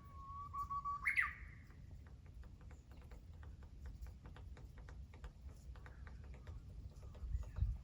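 A woodpecker pecking at wood, a long run of sharp taps at about five a second. It follows a bird's long whistled note that ends in a quick rising flourish about a second in.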